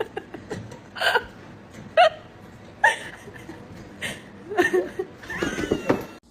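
A voice making short hiccup-like bursts, roughly one a second, with a longer run of them near the end.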